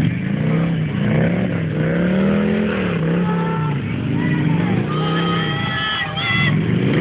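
Harley-Davidson V-twin motorcycle engine revving up and down again and again, about once a second.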